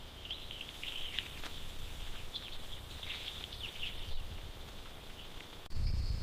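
Short, high chirping calls over a steady high-pitched drone, busiest in the first four seconds. Near the end it cuts abruptly to a louder low rumble with a thin high tone.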